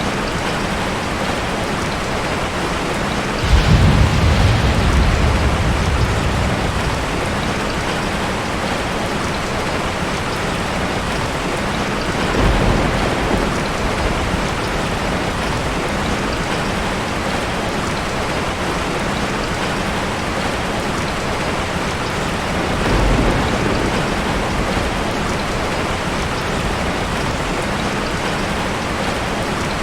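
Steady heavy rain, with three low rolls of thunder: the first and loudest a few seconds in, fading over about three seconds, then two weaker ones later.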